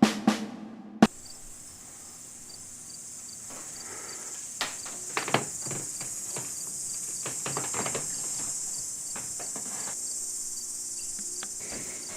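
Crickets chirping steadily, with a few sharp clicks near the start and scattered light knocks and rustles through the middle.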